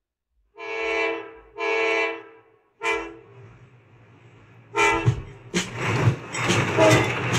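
Train whistle sounding two long toots and a short one, then a faint hiss and another short toot. Upbeat music with drums starts about five and a half seconds in.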